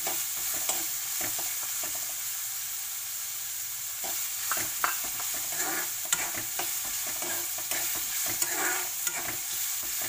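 Chopped onions and green chillies sizzling in hot oil in a kadai over a high flame, with a steel spatula stirring and scraping against the pan in scattered sharp clicks.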